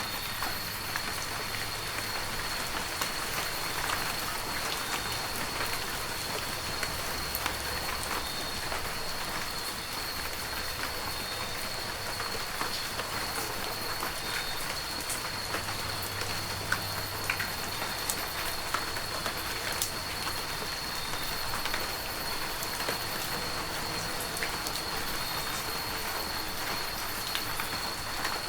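Heavy rain falling steadily, with many individual drops ticking on surfaces. A thin, steady high-pitched tone runs underneath.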